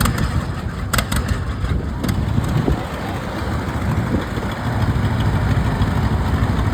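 Engine running steadily, with a few sharp clicks in the first couple of seconds.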